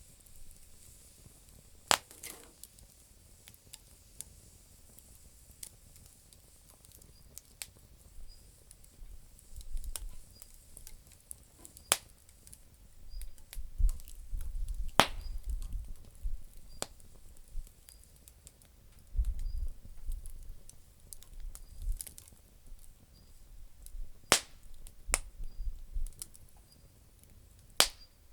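Campfire of damp firewood crackling, with loud sharp pops every few seconds and a low rumble that swells and fades through the middle.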